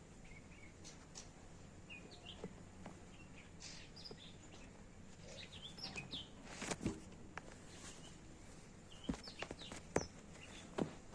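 Faint, scattered short bird chirps with a few sharp light taps or clicks.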